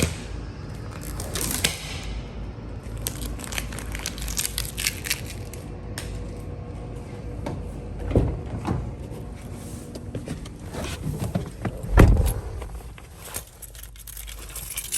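Metal clicks, rattles and knocks of a wheel boot being handled and taken off a car wheel, with heavier thumps about eight and twelve seconds in.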